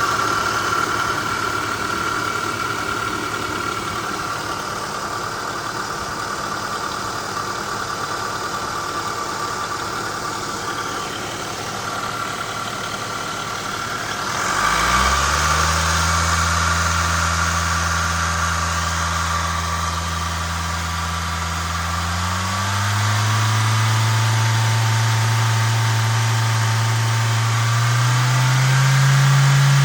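LDV G10 engine running; about halfway a deep steady note comes in as the revs rise, and the revs are then held higher in two further steps, near two-thirds through and near the end.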